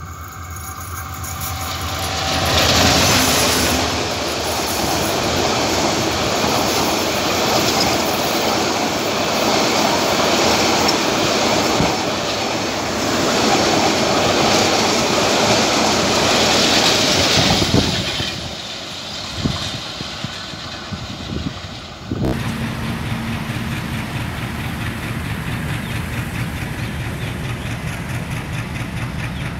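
Diesel-hauled passenger train passing at speed, with the rush and clickety-clack of its coaches' wheels on the rails, fading away after about 18 seconds. At about 22 seconds the sound changes abruptly to a diesel locomotive's engine idling with a steady low hum.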